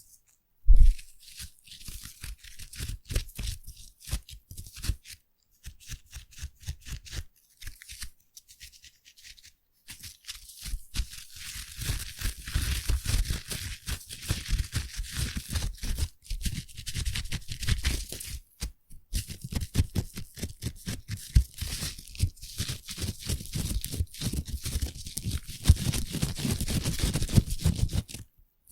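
Foam worked close to the microphone, a dense crackle of tiny pops and rustling that comes in spells with short pauses. A sharp knock sounds about a second in.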